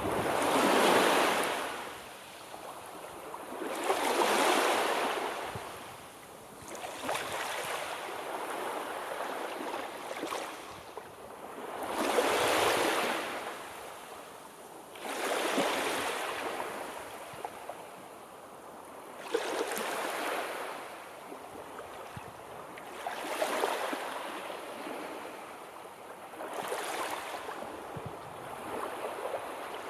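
Sea surf: waves washing in, a swelling rush of water every three to four seconds.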